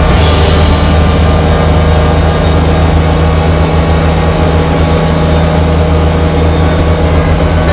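Tractor engine running steadily under load, driving a snowblower.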